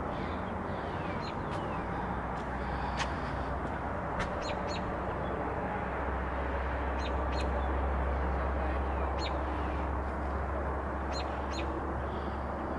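Small birds chirping in short, scattered calls over a steady low rumble of highway traffic that swells a little midway.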